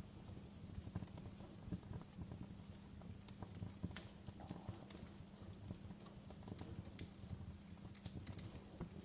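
Wood fire in a fireplace crackling, with irregular small pops and snaps over a low, steady rumble of the flames.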